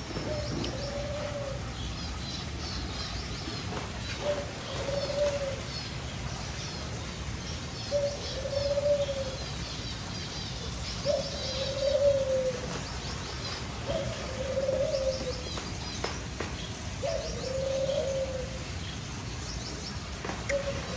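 Birds singing: a low cooing call, each about a second long, repeats about every three to four seconds, with quick high chirps from smaller birds in between.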